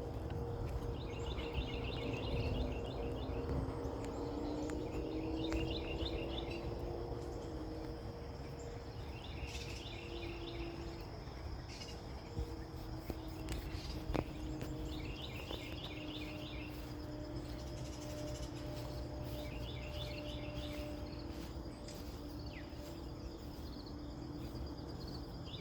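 Outdoor ambience: a short phrase of rapid chirps repeats about every three to four seconds over a low steady rumble and a faint hum.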